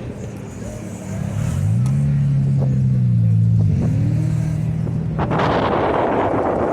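A car engine revs up about a second in, holds a steady pitch for about two seconds, then drops back. A loud rushing noise follows from about five seconds in.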